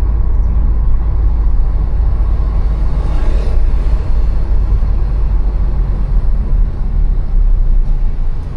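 City street traffic heard from a moving bicycle: a steady low rumble of engines and road noise, with a vehicle passing close about three seconds in.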